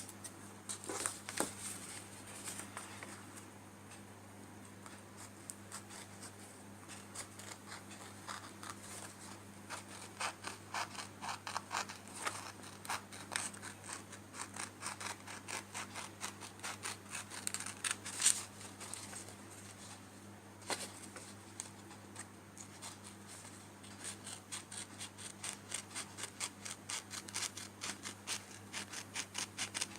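Scissors cutting a sheet of paper: runs of short, crisp snips with paper rustling between them, over a faint steady low hum.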